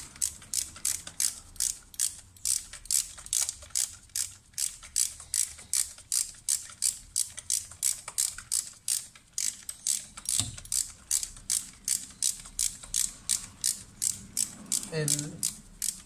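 Hand ratchet wrench being worked back and forth, its pawl clicking in a steady run of about three sharp clicks a second.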